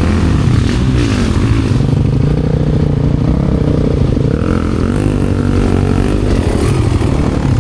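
Motorcycle engine running under load, its pitch rising and falling as the throttle is worked on and off.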